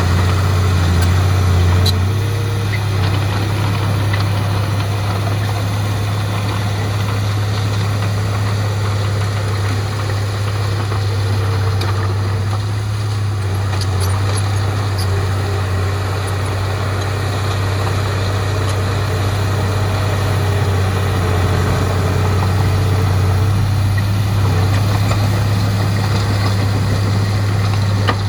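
Heavy diesel engine of earthmoving machinery running steadily at a low, even hum, with a slight shift in tone about two seconds in.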